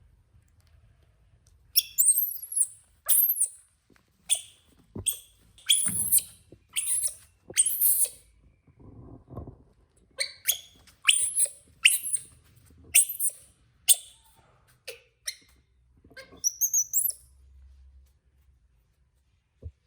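Baby monkey giving a series of short, very high-pitched bird-like chirps, about one or two a second, starting about two seconds in. Near the end come a couple of warbling, gliding whistles, then the calls stop.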